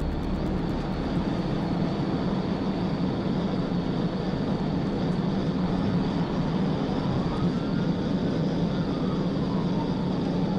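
Police cruiser at pursuit speed: a steady roar of engine, tyres and wind rush, with a siren faintly wailing in the second half.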